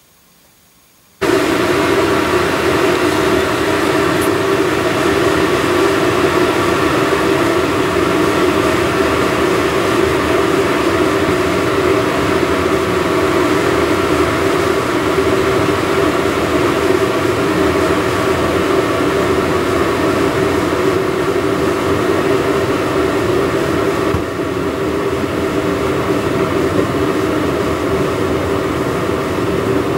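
A machine is switched on about a second in and runs loud and steady, with a constant hum and a few steady tones over a noisy rush. It drops a little in level near the end.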